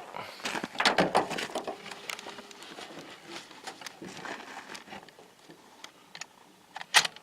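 Clatter and rustling of a shooter scrambling onto a truck bed and handling a rifle and gear: a quick run of small knocks and clicks, busiest in the first couple of seconds, then sparser, with one sharper knock near the end.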